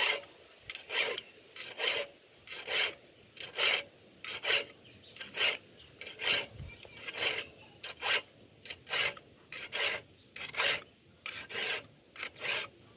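Hand file scraping along a dull metal blade to sharpen it, in long, even strokes of about one a second.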